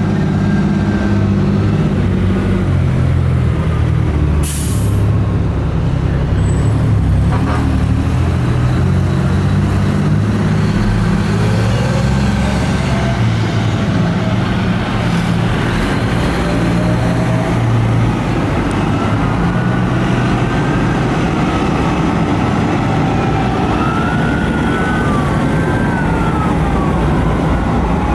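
Fire trucks' diesel engines rumbling close by, with a short air-brake hiss about four seconds in. Faint sirens wail up and down through the second half.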